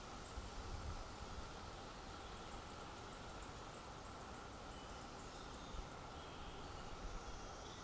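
A small bird calling: a run of about a dozen thin, very high notes, about three a second, over faint steady outdoor background noise, with a few low bumps.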